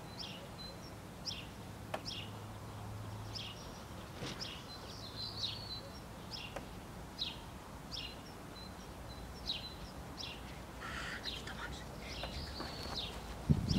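Small birds chirping in the background, short high chirps repeated every second or so, over faint outdoor background noise.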